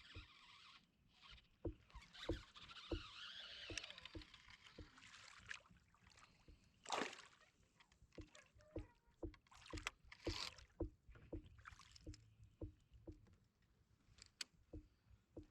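Quiet sounds of a Hobie Pro Angler 360 fishing kayak on the water: a faint hiss for the first few seconds and light knocks at a steady rhythm of about two a second.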